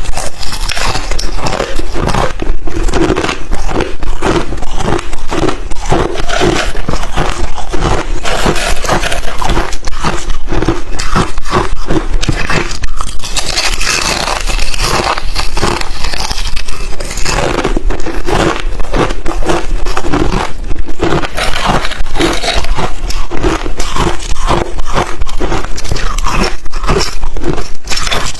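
A person biting and chewing hard crushed ice chips: a dense, unbroken run of sharp crunches.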